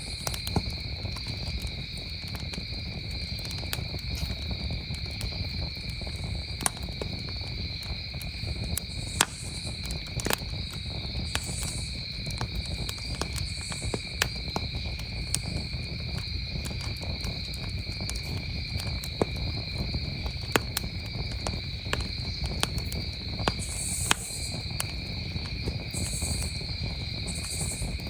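Wood campfire crackling with frequent, irregular sharp pops, over the steady high trill of crickets chirping continuously.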